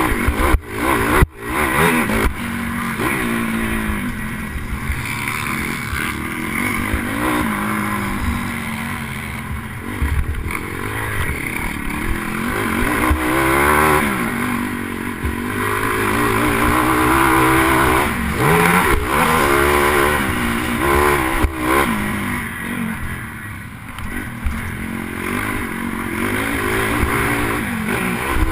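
Pit bike's small single-cylinder four-stroke engine revving up and down hard through gear changes while racing around a dirt track, heard from a helmet camera with rushing wind noise. A few sharp knocks come about a second in.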